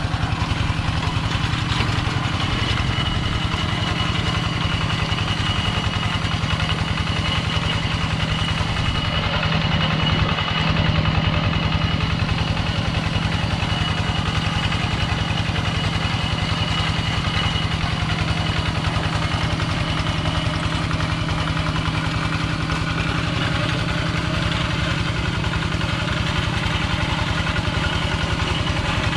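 Engine of a Kubota two-wheel walk-behind tractor running steadily, briefly a little louder about ten seconds in.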